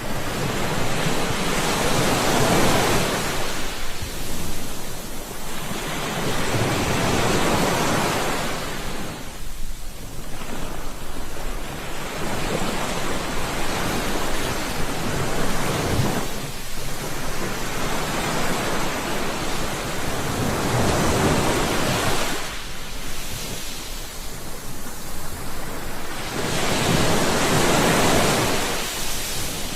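Ocean surf: waves breaking and washing up the shore, the hiss of water swelling and ebbing in slow surges about every five seconds.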